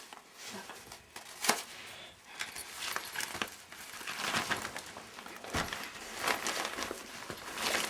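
A folded pet tent and its plastic wrapping rustling and crinkling as they are handled, with a few sharp clicks, one about a second and a half in and another near the middle.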